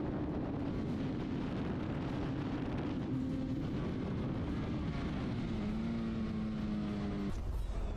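Motorcycle riding at speed: steady wind rush over the engine's running note. A clearer engine note comes up in the last couple of seconds and cuts off abruptly just before the end.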